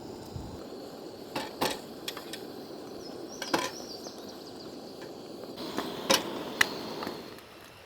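Several sharp wooden knocks and snaps, irregularly spaced a second or two apart, over a steady rushing background that fades near the end.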